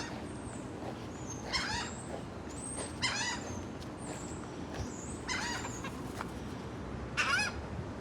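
Seagulls calling: four short, high-pitched calls spaced a second and a half to two seconds apart, over a steady low background rumble.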